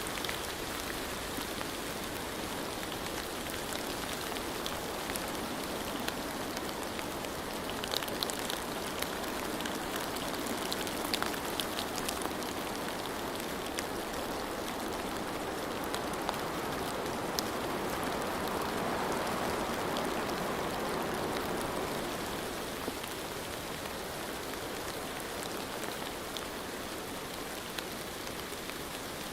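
Steady rain falling, with scattered sharper drop ticks. It swells slightly about two-thirds of the way through.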